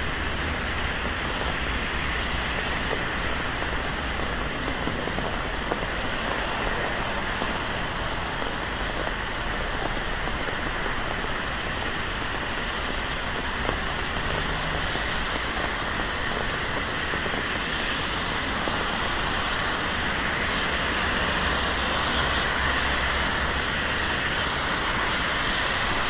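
Steady rain falling on a city street, mixed with the hiss and low rumble of traffic on wet road; the hiss swells slightly in the last few seconds.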